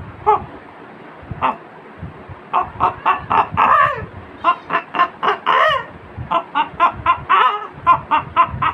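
Mimicry by mouth of a mother hen and her chick: a few scattered cheeps, then from about two and a half seconds in quick runs of short chirping and clucking calls, several a second.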